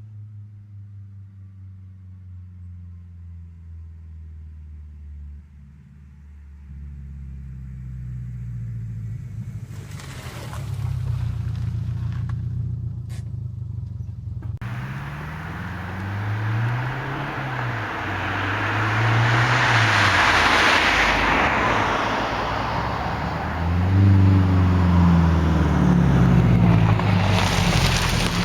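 Subaru Legacy's boxer engine and exhaust running low, then revved up and down several times, growing louder. From about halfway a steady hiss joins it.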